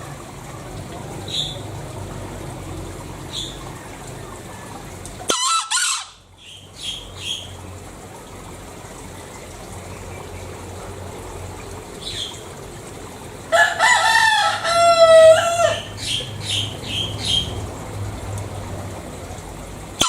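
Green junglefowl calling: one sharp call about five seconds in, then a louder, longer call past the middle, followed by several short calls. Faint short high chirps recur throughout over a steady low background hum.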